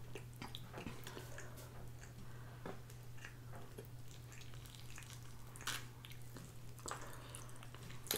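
Close-miked biting and chewing of a sauced buffalo chicken wing: soft, faint mouth clicks, with a couple of sharper bites a little before six and seven seconds in.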